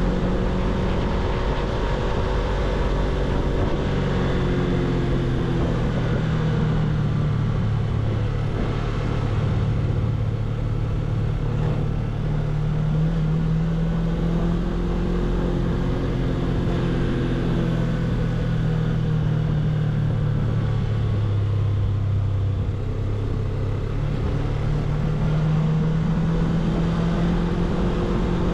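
Suzuki V-Strom 250's parallel-twin engine running while being ridden, its note slowly rising and falling with changes of throttle and speed over a steady rush of road and wind noise.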